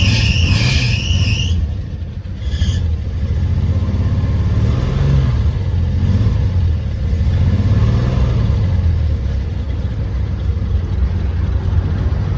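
1986 Ford F-150's engine running just after a hard cold start, its speed rising and falling gently as it settles toward idle. A high squeal sounds over it for the first second and a half and briefly again a second later.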